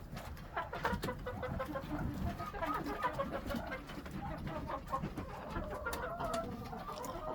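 Several hens clucking, a steady scatter of short, soft clucks.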